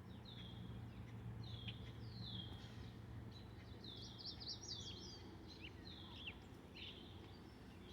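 Small songbird calling: short downslurred chirps repeated every second or so, with a quick run of notes about halfway through. A faint steady low hum lies underneath.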